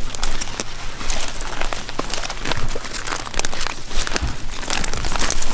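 Irregular crunching and rustling of footsteps through dry brush and grass, with brush snapping and scraping against clothing.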